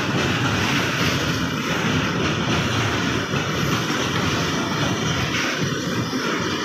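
Steady loud rumble and rushing noise of a train passing close by.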